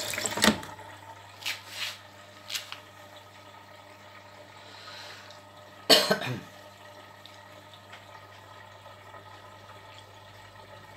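Plastic detergent drawer of a Beko washing machine being handled and pushed shut: a few light knocks, then a louder clack about six seconds in. Under them the machine runs with a low steady hum.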